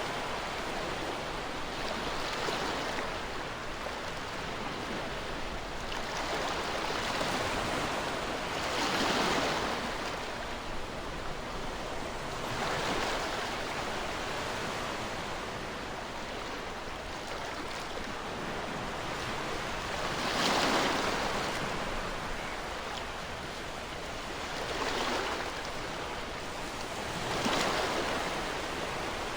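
Ocean waves washing onto a shore: a continuous hiss of surf, with a wave surging louder every few seconds and then falling back.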